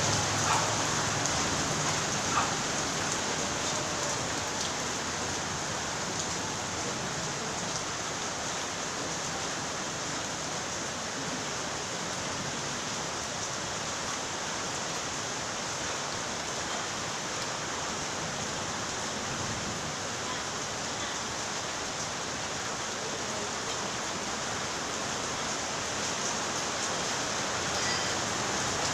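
Steady rain falling, an even continuous hiss, with a few sharper drop ticks in the first few seconds.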